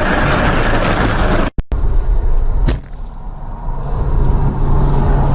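Loud vehicle and road noise that cuts off abruptly about a second and a half in, giving way to quieter engine noise with one brief sharp sound after about another second, and then a steady low engine hum.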